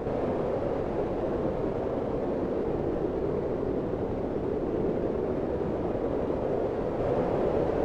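Steady low rushing noise of a cabin fireplace-and-snowfall ambience bed, even throughout with no distinct crackles or pops.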